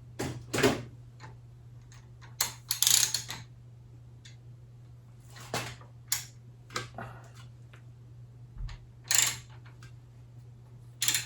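Irregular clicks, taps and short scrapes of small tools and metal parts being handled on a workbench, loudest about half a second in, around three seconds in and about nine seconds in. A steady low hum runs underneath.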